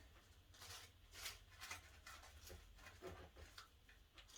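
Near silence with a low hum, broken by a few faint, brief rustles as artificial fern and silk foliage are handled and pushed into place.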